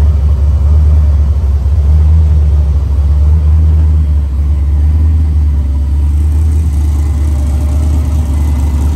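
Buckshot X5's engine idling in neutral, a steady low rumble that eases slightly about halfway through.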